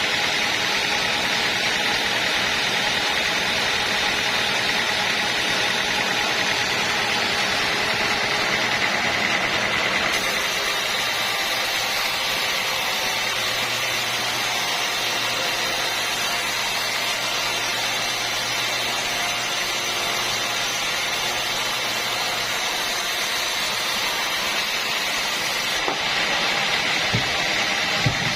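Machinery running steadily: an even, engine-like drone with a constant higher whine, and a low hum that comes in for several seconds in the middle. A couple of light clicks sound near the end.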